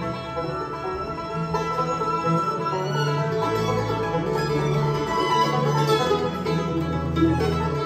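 Bluegrass band playing live, banjo rolling over guitar and upright bass, with a fiddle in the mix.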